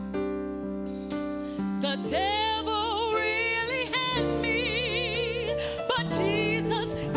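A woman singing a slow gospel ballad with wide vibrato over instrumental accompaniment. The accompaniment plays alone at first, and her voice comes in about two seconds in.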